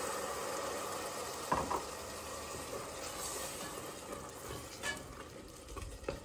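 Chopped onions and garlic sizzling in oil in a stainless steel pot just after a splash of water goes in; the sizzle slowly dies down. Two light knocks of a utensil come about a second and a half in and near the end.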